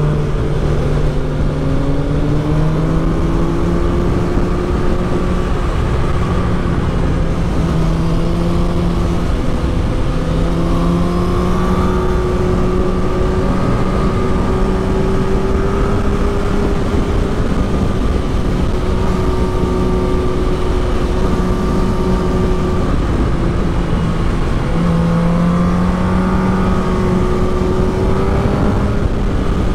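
Suzuki GSX-R1000 K6 inline-four motorcycle engine under way on a twisty road, its pitch climbing slowly and dropping back several times with throttle and gear changes. Wind rushes steadily over the microphone throughout.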